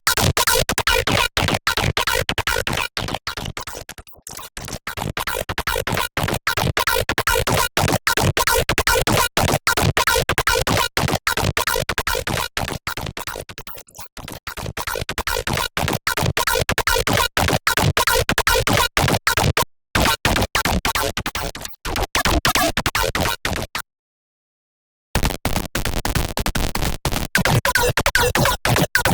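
Serum wavetable synthesizer patch playing a harsh, gritty electronic sound, chopped into rapid stuttering pulses, like record scratching. Its loudness sinks and swells twice, and it drops out for about a second near the end before starting again.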